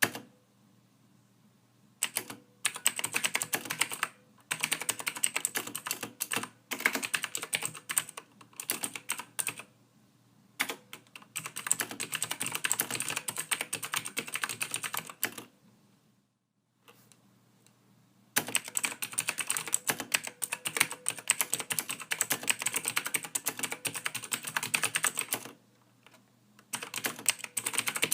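Typing on a computer keyboard: fast runs of key clicks broken by short pauses, the longest pause about two-thirds of the way in, followed by a long steady run of typing.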